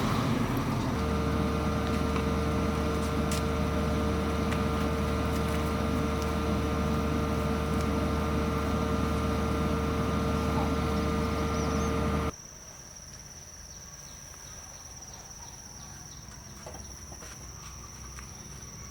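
A steady motor drone with a low rumble and a constant hum, cut off suddenly about twelve seconds in. Insects then trill steadily at a high, even pitch.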